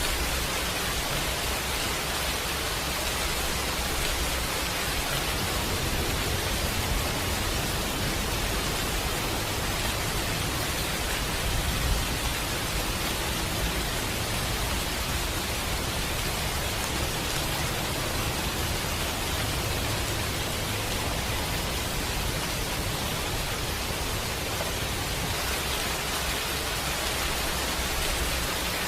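Steady rain falling, an even hiss over a low rumble, mixed with a crackling fireplace. Two brief pops stand out, about seven seconds in and more sharply near twelve seconds.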